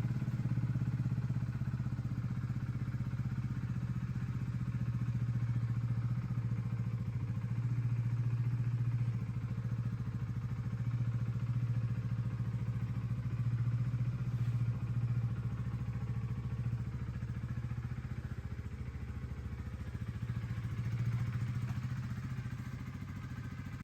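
Honda CB125R's 125cc single-cylinder four-stroke engine idling steadily.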